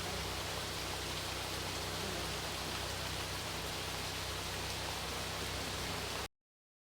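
A steady rushing noise with a low hum underneath, which cuts off abruptly near the end into dead silence.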